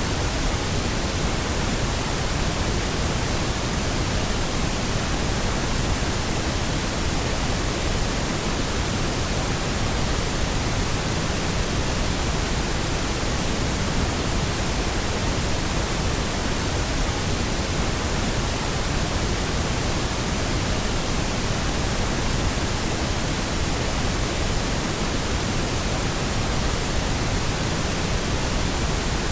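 Steady, unchanging pink noise: an even hiss across all pitches that stays at one level throughout.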